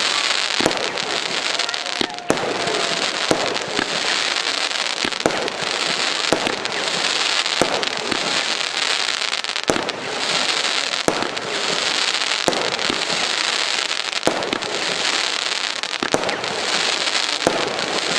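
Nico 'Time Rain' 13-shot firework battery firing: a sharp shot about every second and a half, each followed by a swelling crackling hiss as the effect breaks.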